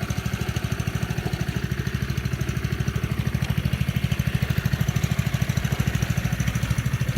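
Honda engine of a Husqvarna walk-behind lawn mower idling steadily with an even, rapid putter, blade disengaged, still warming up after a cold start.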